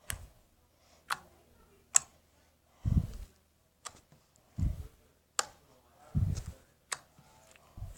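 Homemade slime being handled, giving about six sharp clicking pops and several duller thuds at an uneven pace.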